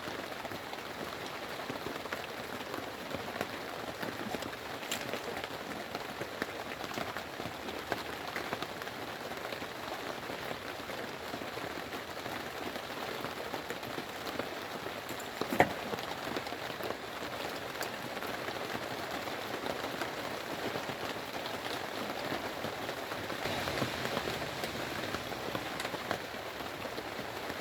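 Steady rain pattering on a surface, a dense crackle of small drops, with one sharper tap about halfway through.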